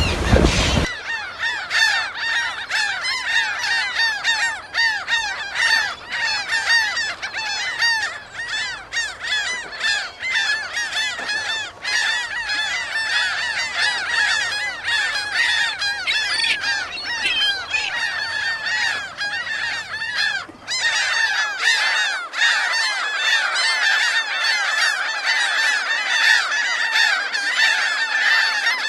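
A large flock of gulls crying continuously, many short arched calls overlapping one another. It opens with a moment of surf noise, and a low rumble under the calls stops about three-quarters of the way through.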